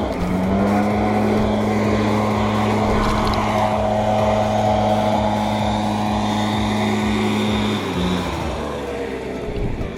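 Small petrol engine of lawn equipment running steadily at full speed with a constant pitch. About eight seconds in the tone shifts and the sound gets a little quieter.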